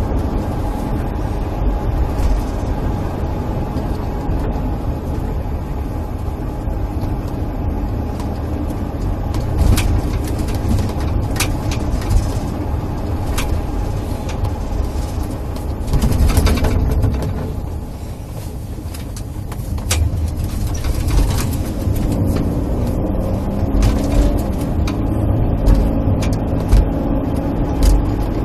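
Car interior noise while driving: a steady low rumble of road and engine, with a few light clicks. It eases off for a moment past the middle.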